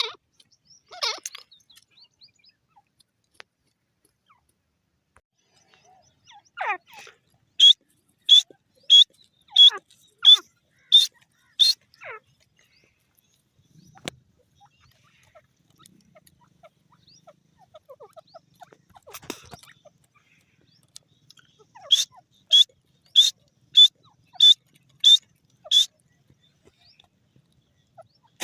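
Francolin (desi teetar) calling: two series of about seven loud, sharp, high notes, evenly spaced about two thirds of a second apart, the first series about eight seconds in and the second about twenty-two seconds in, with a few shorter scattered calls between.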